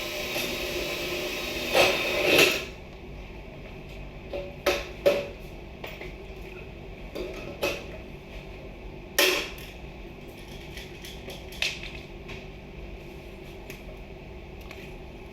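Power drill running with a steady whine that stops about two and a half seconds in with a couple of loud knocks, followed by scattered knocks and clatters of tools and materials being handled.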